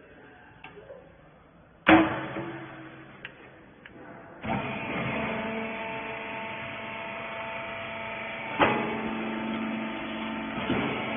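Rag baler machine with a loud bang about two seconds in, then, about four seconds in, the machine starts up and runs with a steady hum of several tones, broken by further bangs.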